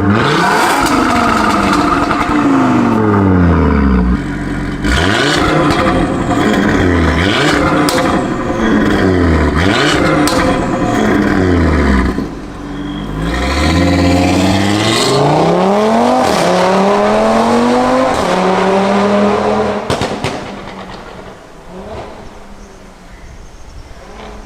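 Audi RS3 (8Y) turbocharged five-cylinder with a catless downpipe and valved cat-back exhaust, accelerating hard. Its note climbs and dips again and again through quick gear changes, with sharp pops and crackles. Near the end the engine sound fades away.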